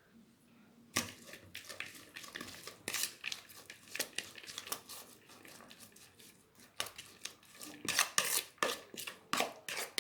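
Dishes and utensils being handled, with irregular clinks and rustling that start about a second in.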